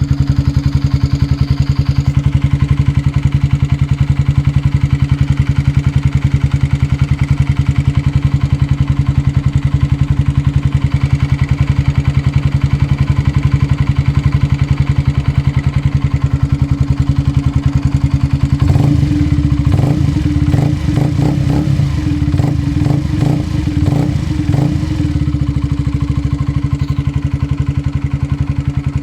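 A 2005 Honda CBR125R's single-cylinder four-stroke engine idling with a small ticking noise, which the owner suspects comes from the cam chain tensioner or the valves. For several seconds past the middle, a run of short, irregular bursts rides over the steady idle.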